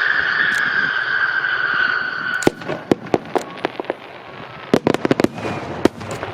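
Aerial fireworks: a long whistle sliding slowly down in pitch fades out about two and a half seconds in. Then come sharp cracks and pops of bursting shells in two quick clusters.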